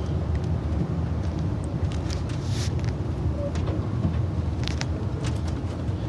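A steady low rumble, with a few short sharp clicks and knocks, one about two and a half seconds in and a couple near the end.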